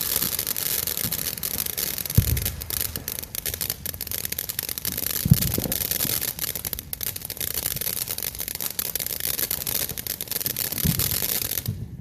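A ground firework hissing steadily with dense fine crackling, and a few low thumps, about two seconds in, about five seconds in and near the end. It cuts off abruptly just before the end.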